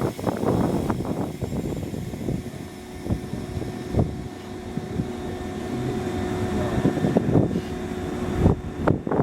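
Running noise inside a Hokuso Railway 7260 series electric train: a continuous rumble with a steady held tone and irregular knocks from the wheels and track.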